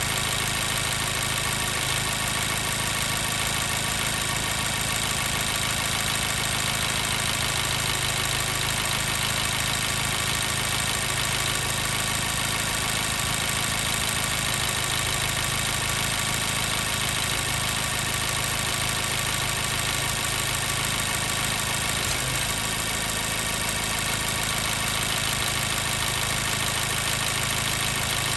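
2014 Mazda 3's 2.0-litre four-cylinder engine idling steadily as it warms up, with the miss of a misfiring number 2 cylinder (code P0302).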